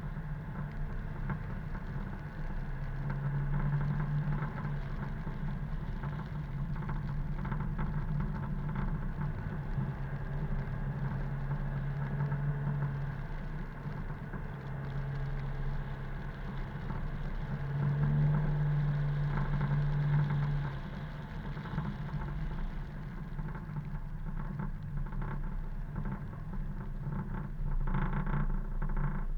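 Car driving along a road: a steady engine hum and road noise, the engine note swelling and easing several times as the car speeds up and slows down.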